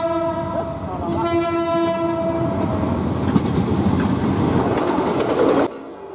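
Diesel locomotive horn sounding, its first blast breaking off about a second in and a second blast following, as the train approaches. The locomotive then passes close by with its engine and wheels loud on the rails, until the sound cuts off suddenly near the end.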